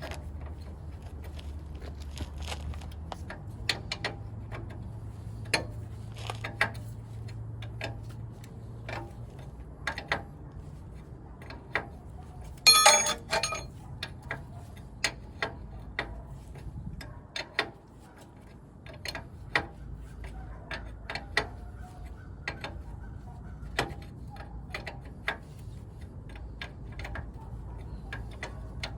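Irregular metallic clicks and clinks of hand tools on metal, with a louder ringing clank about 13 seconds in, over a low steady hum.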